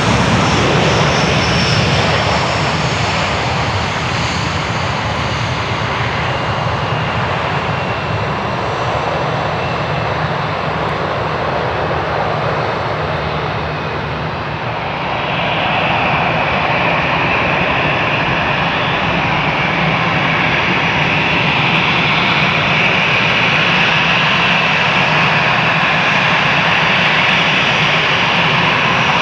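Jet engines of a Lufthansa Airbus A320-200 running loud and steady, with a high whine that swells about halfway through.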